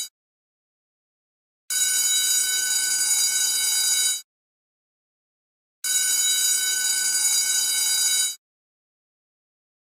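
School bell ringing in two rings of about two and a half seconds each, with a steady, high, shrill tone and silence between them, repeating as a loop.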